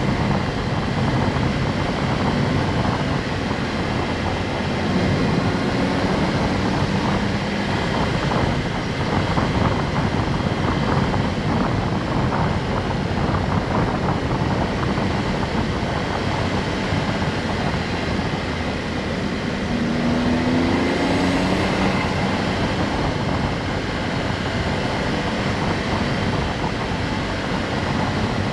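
Honda S660's small turbocharged three-cylinder engine running while the car is under way, over steady road and wind noise; the engine note rises briefly about twenty seconds in.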